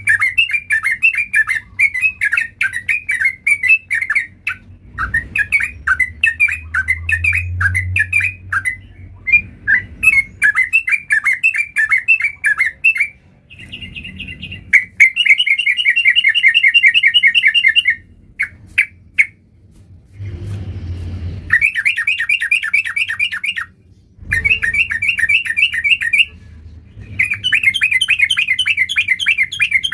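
Yellow-vented bulbul (trucuk) singing vigorously: quick, bubbly chattering phrases, then from about halfway a series of fast rattling runs of rapidly repeated notes, each a couple of seconds long with short pauses between.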